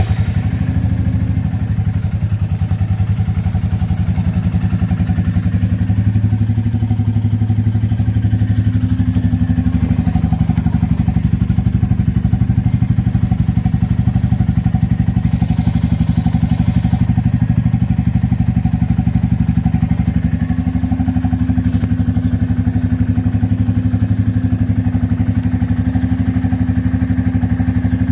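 Royal Enfield Bullet 350's single-cylinder engine idling steadily through an aftermarket exhaust, with an even, rapid exhaust beat.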